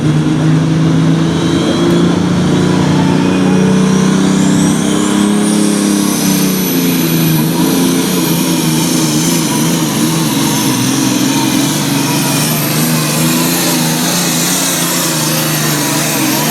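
Super stock pulling tractor's turbocharged diesel engine running hard at full load, with a high whine that climbs steeply over a few seconds and then holds near the top.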